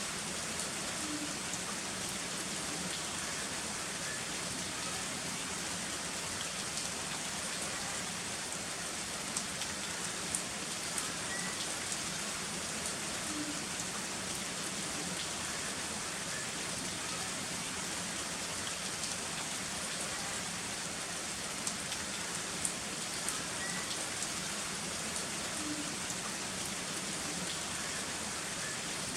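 Heavy rain falling steadily, with scattered ticks of individual drops striking a surface. No thunder.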